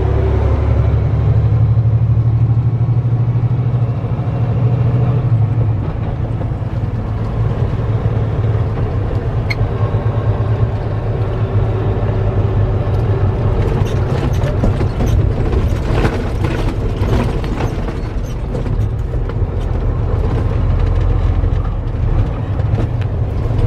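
Kenworth T660 semi-truck's diesel engine running with a steady low drone. A run of short clicks comes about two-thirds of the way through.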